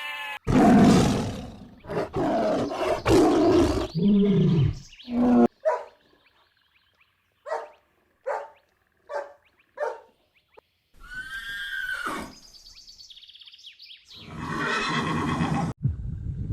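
Lion roaring, several long, rough roars one after another, followed by a string of other animal calls: four short calls evenly spaced, then a falling call and a short noisy burst near the end.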